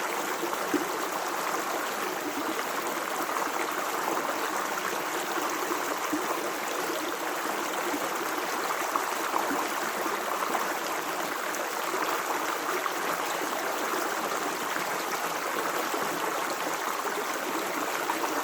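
Natural running water flowing steadily, with a few brief splashes.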